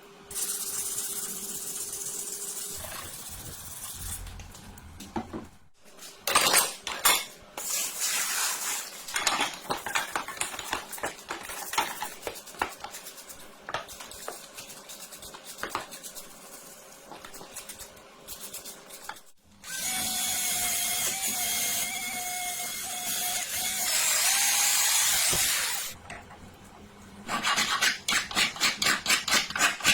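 Workshop tool work on metal parts: scattered knocks and scraping strokes, then a power tool running steadily for about six seconds, then quick rhythmic strokes of a few per second near the end.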